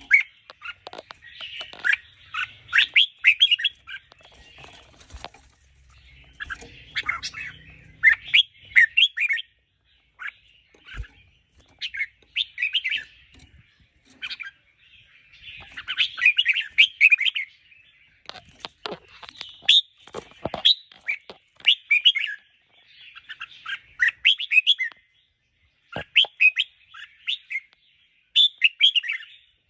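Red-whiskered bulbul singing: short, bright warbled phrases repeated one after another with brief pauses, with a few sharp clicks between them.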